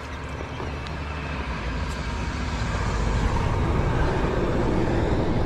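Steady rushing noise of a high, fast-flowing creek, with wind buffeting the microphone, swelling over the first few seconds and then holding.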